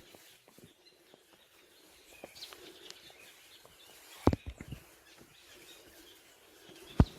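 Outdoor ambience with faint bird chirps over a low hiss. A sharp knock comes about four seconds in, followed by two lighter ones, and another knock comes near the end.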